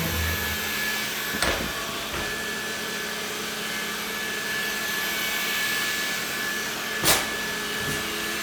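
Roborock robot vacuum running with a steady whirring hum and a thin high whine, with two short knocks, about a second and a half in and about seven seconds in.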